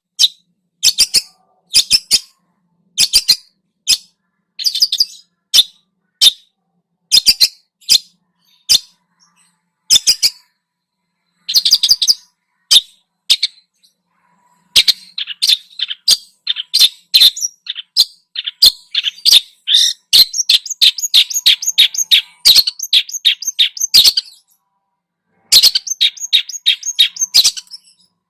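A songbird calling in loud, sharp, high chirps, in short bursts about once a second. About halfway in it breaks into a fast, continuous chattering run, pauses, then gives one more short burst near the end.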